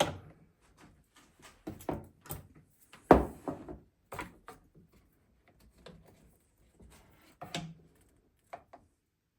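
Irregular knocks and clunks from parts of a Flymo Hover Vac 250 mower being handled, the loudest about three seconds in, with a few quieter taps near the end.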